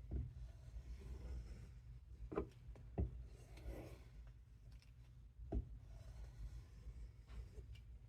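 A 1095 carbon-steel knife blade being stropped on leather: soft rubbing strokes, with a few light knocks as the blade is set down or turned.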